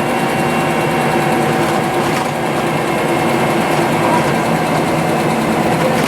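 Scania OmniLink CL94UB city bus engine running at a steady pitch, with a faint knock about two seconds in.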